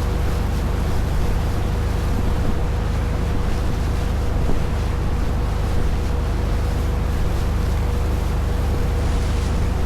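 A boat's engine runs at a steady pace while underway, an even drone with a thin steady tone in it. Rushing water and wind noise sit under it.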